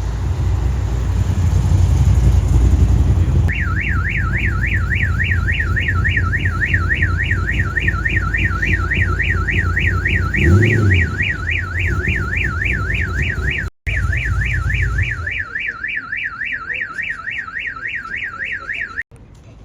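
Car alarm siren warbling fast, its pitch sweeping up and down about four to five times a second, sounding over a car engine's low running rumble.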